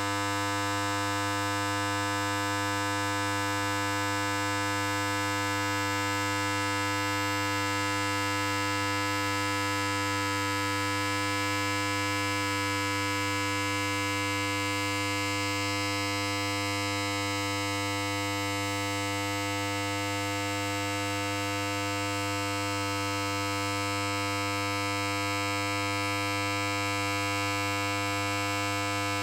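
Electric hair clipper running continuously: a steady buzz with a strong low hum. Its tone shifts slightly a couple of times.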